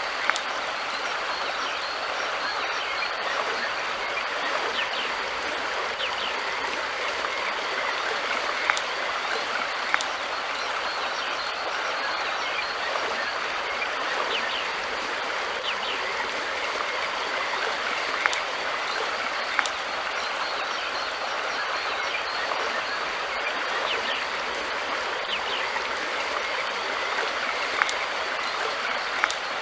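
River water flowing in a steady, even rush, with a few sharp clicks scattered through it, some in pairs.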